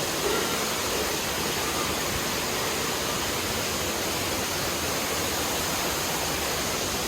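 Steady rush of falling water from a pool waterfall, an even, unbroken hiss.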